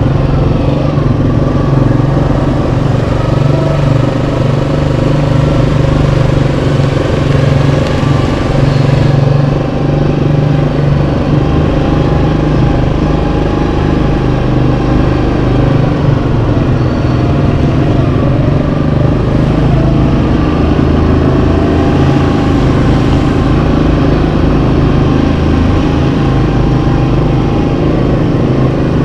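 Yamaha Kodiak 700 ATV's single-cylinder four-stroke engine running steadily while riding, its pitch shifting slightly up and down with the throttle.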